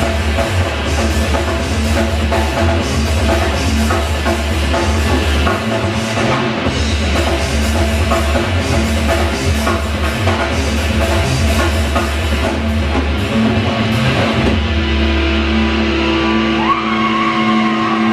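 Rock band playing live and loud, with drum kit and guitars. Near the end the band settles into a held, ringing chord while a guitar note slides upward.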